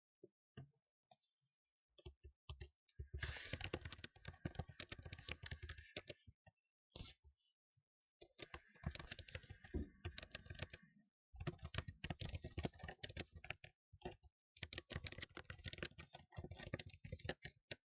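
Computer keyboard being typed on in quick bursts of two to three seconds, with short pauses between the bursts and a few single key taps at the start.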